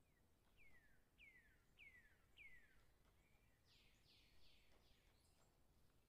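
Faint bird calls: four clear whistles, each falling in pitch, about half a second apart, then a few rougher, harsher calls about four seconds in.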